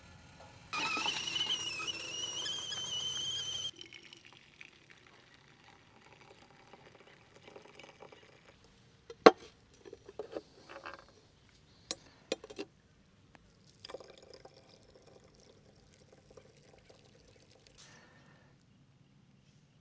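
Liquid being poured into a container for about three seconds, its pitch rising slightly as it fills. A few sharp clicks and knocks follow later.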